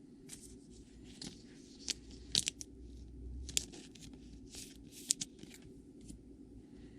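A trading card pack's wrapper being torn open and crinkled, with cards handled: irregular sharp crackles and clicks, loudest about two and a half and five seconds in.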